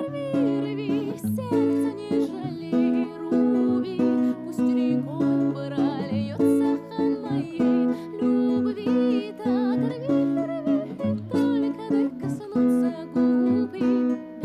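Acoustic guitar playing a song arrangement: a steady repeating low accompaniment with a higher melody line whose notes waver in pitch.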